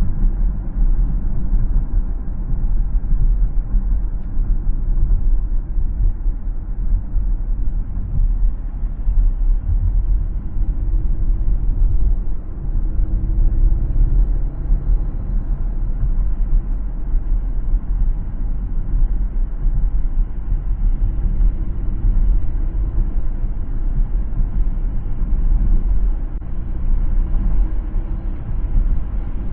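Car driving along a city road: a steady low rumble of tyres and engine, with no sudden sounds.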